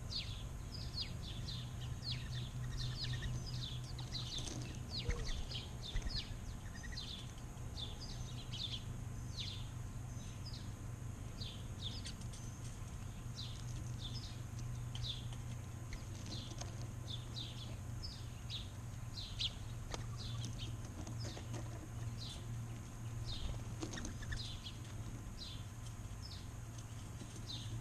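Small backyard birds chirping, a busy run of short, quick, high chirps from several birds, over a steady low hum.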